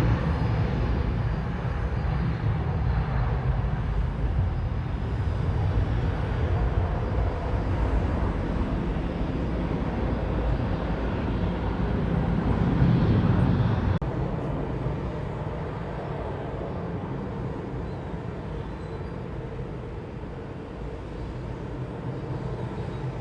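Jet airliner's engine noise, a low broad sound with no clear tones. It swells a little about halfway through, then fades steadily as the aircraft moves away.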